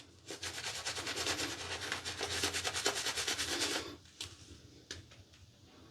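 Synthetic-knot shaving brush working shaving-soap lather in quick, rhythmic scrubbing strokes, about five a second. It goes on for about three and a half seconds and then stops.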